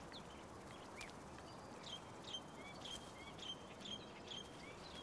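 Faint birdsong: short, high repeated notes, a couple a second, starting about two seconds in over soft outdoor background noise.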